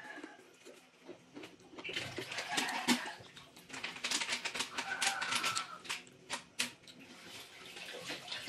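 Close-up wet chewing of juicy pomelo segments: many quick mouth clicks and smacks, with two louder juicy stretches about two and four seconds in.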